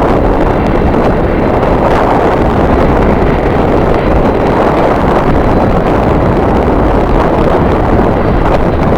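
Strong wind buffeting the camera microphone: a loud, steady rumbling roar that carries on without break.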